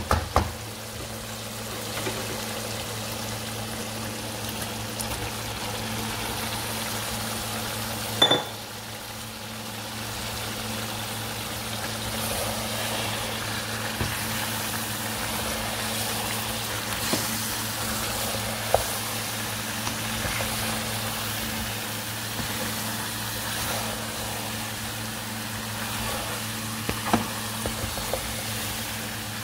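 Chicken and chopped green capsicum sizzling in a wok while being stirred, with a steady low hum underneath. A sharp knock comes about eight seconds in, and a few lighter spatula knocks on the pan follow.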